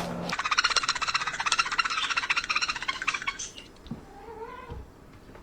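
A cat making a fast, rattling pulsed call for about three seconds, then a soft, short meow about four seconds in.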